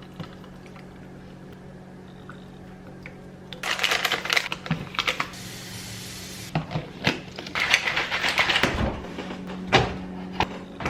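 Kitchen handling sounds while a powdered shake is made: containers, lids and a shaker cup clicking and clattering, with about a second and a half of water pouring in the middle. Under it runs a steady low hum.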